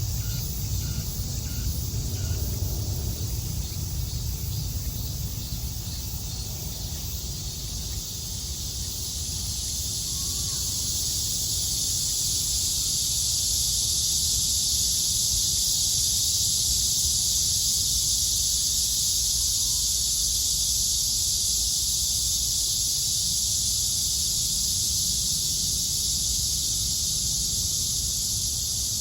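Cicadas buzzing in a dense, steady chorus that swells in from about eight seconds and then holds. At the start a low rumble fades away, with a few short bird chirps over it.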